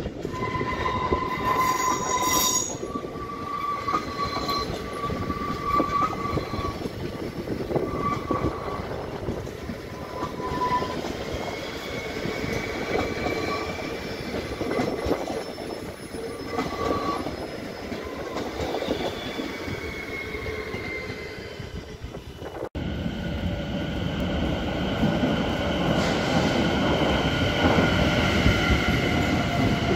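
NS ICNG electric intercity train running through a station, its wheels squealing in short, steady high tones over the first ten seconds above the rumble of the wheels on the track. After a sudden cut about two-thirds of the way in, a second electric multiple unit runs with a steady whine of several tones, getting louder towards the end.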